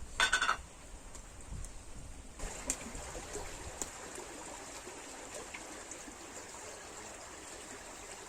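Stream water trickling steadily, fuller from about two and a half seconds in. A brief loud, pitched sound comes just after the start.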